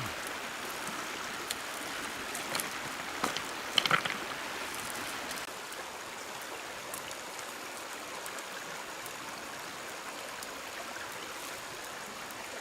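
Stream water running steadily over stones, with a few brief sharp sounds about three to four seconds in, the loudest near four seconds.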